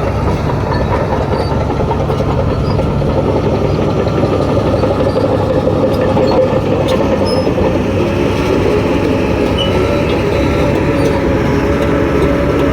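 Shantui DH17 crawler bulldozer working: its diesel engine runs steadily over a continuous rattle, and its tone rises slightly after about eight seconds.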